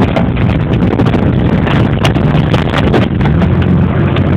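Vehicle engine running steadily, with wind buffeting the microphone.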